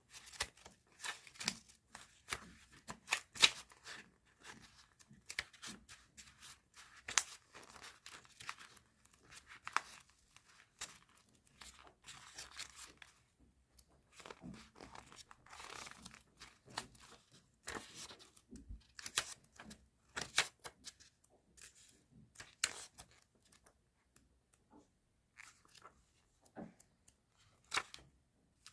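Paper and plastic stationery packaging being handled: irregular crinkling, rustling and tearing, with short sharp snaps and brief pauses between them.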